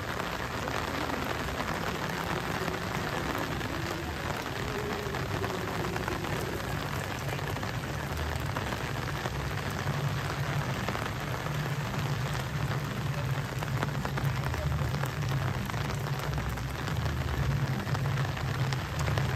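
Steady rain falling on wet paving, an even hiss, with a low steady rumble underneath that grows a little stronger about halfway through.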